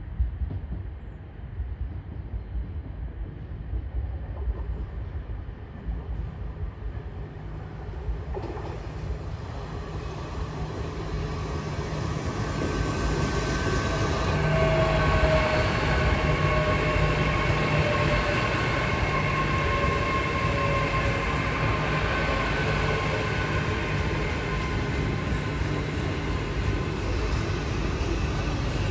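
GWR Intercity Express Train approaching and running along the platform. Its rumble builds from about eight seconds in, is loudest about halfway through and then holds steady, with a whine that falls slightly in pitch.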